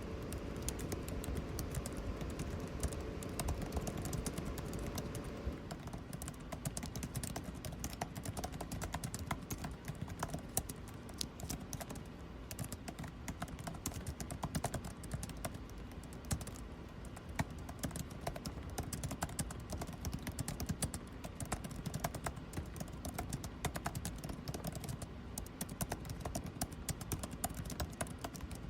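Computer keyboard typing: dense, irregular key clicks over a steady air-conditioning hum. A faint steady tone in the background stops about six seconds in.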